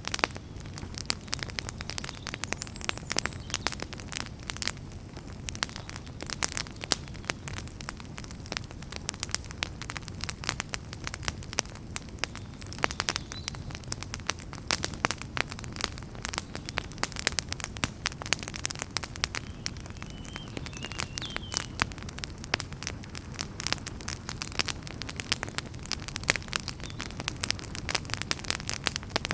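Wood campfire crackling: dense, irregular pops and snaps over a steady low rumble of the flames.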